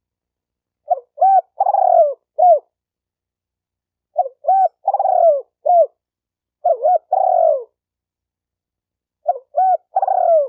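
Spotted dove cooing: four phrases, each a few short coos around one longer coo that falls in pitch, with a pause of a second or more between phrases. The last phrase is still going at the end.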